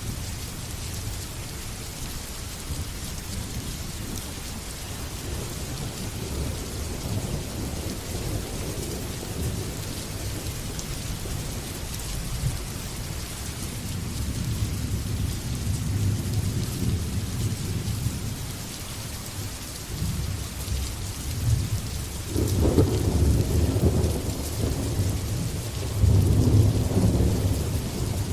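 Steady heavy rain hissing, with rolling thunder rumbling low beneath it that builds through the middle and comes in two louder rolls near the end.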